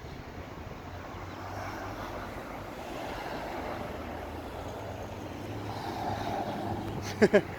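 Road traffic passing by in swells, with two short, loud chirps close together near the end.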